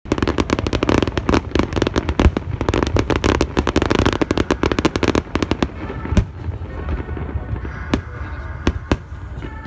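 Fireworks going off: a dense, rapid run of crackling pops for about five seconds, then thinning to scattered single bangs.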